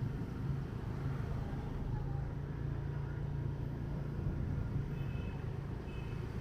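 Motorbike engine running with a steady low hum.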